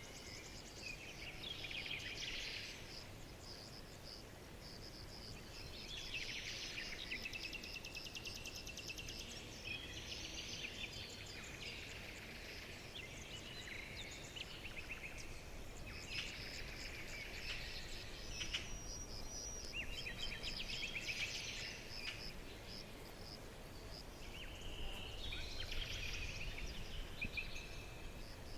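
Several small birds chirping and trilling in quick runs of high notes, one group after another every few seconds, over a faint steady hiss.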